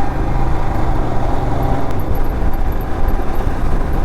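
Royal Enfield Himalayan's 411 cc single-cylinder engine running at a steady cruise, mixed with steady wind and road noise.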